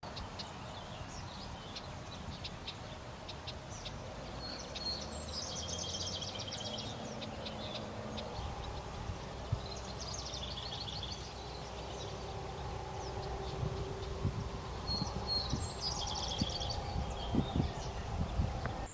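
A songbird singing the same short phrase three times, a few seconds apart: a couple of high notes and then a fast high trill. Scattered faint chirps and a steady low rumble run underneath.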